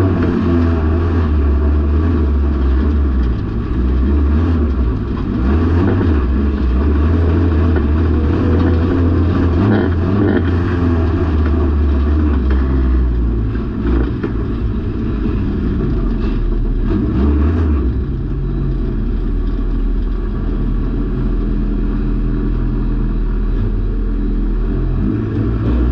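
Junior banger racing car's engine heard from inside the stripped-out cabin, running hard and revving unevenly, then settling to a steadier, lower running about 18 seconds in.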